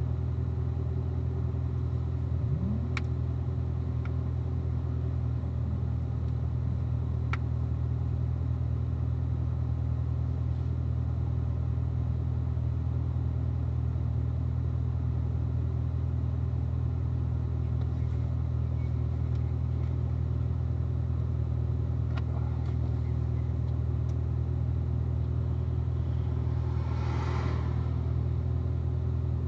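2016 Corvette Z06's supercharged 6.2-litre V8 running at a steady, low engine speed: a constant low drone with no revving. A few light clicks are heard, and a brief hiss comes near the end.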